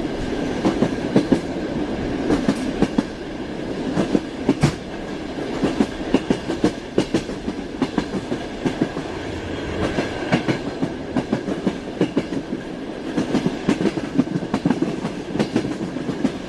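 Train wheels clattering over rail joints: groups of sharp clacks every second or two over a steady rolling rumble.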